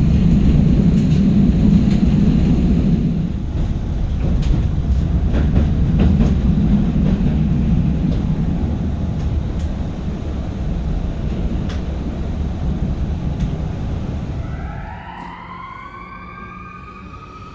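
Tram running on rails: a loud low rumble with scattered clicks of the wheels over the track. It eases off about three-quarters of the way through, and near the end the tram's electric traction drive gives a whine that rises in pitch and then holds.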